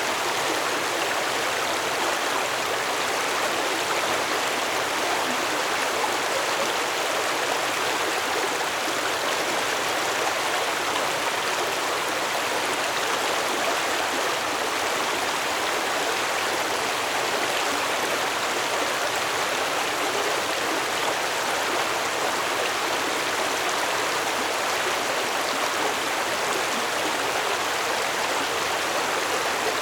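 Stream water flowing steadily over stones, an even rushing and burbling with no change.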